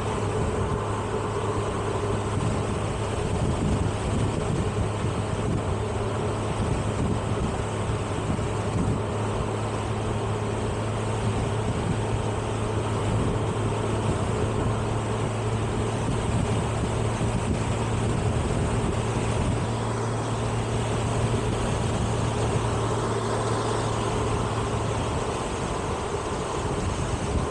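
Motorcycle engine running steadily at cruising speed with constant wind rush, a low drone that neither rises nor falls.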